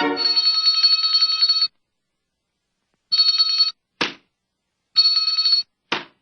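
An electric bell with a rapidly striking clapper, like an old telephone ringer, rings in bursts: one long ring, then two shorter rings. A short sharp knock sounds between each pair of rings, and the gaps are dead silent.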